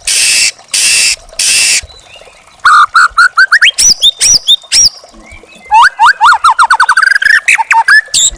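White-rumped shama (murai batu) singing: three harsh, rasping bursts, then after a short pause fast runs of sharp, quick whistled notes sweeping up and down.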